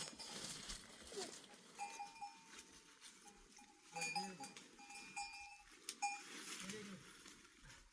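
Faint livestock sounds: animal calls, with a ringing bell-like tone held through the middle.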